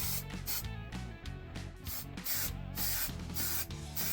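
Aerosol can of trim spray adhesive hissing in repeated short bursts, with background music under it.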